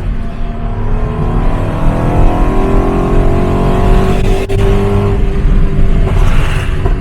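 Toyota GT86's flat-four engine accelerating, heard from inside the cabin: the engine note climbs steadily, breaks briefly just past the middle, then falls away with a short burst of crackle near the end from the tuned exhaust's overrun pops and crackles.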